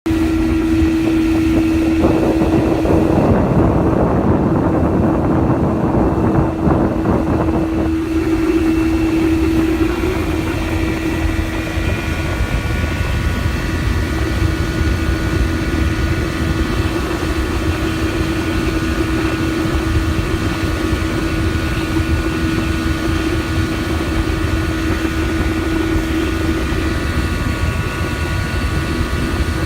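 1985 Mercury 50 hp outboard motor running steadily at wide open throttle, its engine note holding one steady pitch. A heavy rushing of wind and water lies over it from about two to eight seconds in.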